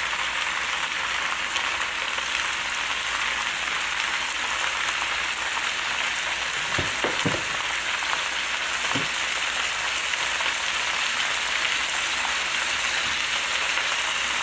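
Wide rice noodles, Chinese kale, egg and pork, just dressed with black soy sauce, sizzling in an oiled wok: a steady frying hiss. A few brief soft knocks come about seven seconds in and once more about nine seconds in.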